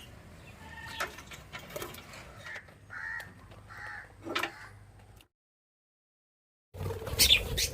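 Pet birds calling in short, separate squawks and chirps. The sound cuts to complete silence for about a second and a half about two-thirds of the way through, and the calls come back louder near the end.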